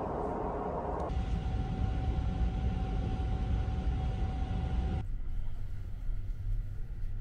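Low rumble of the Sunrise Express sleeper train, a 285 series electric train, heard inside a private compartment. A steady whine sits over the rumble for a few seconds, and the sound changes abruptly about a second in and again near five seconds.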